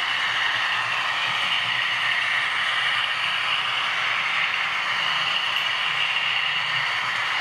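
Model V200 diesel locomotive running steadily on model railway track, a continuous mechanical running noise with light rattle.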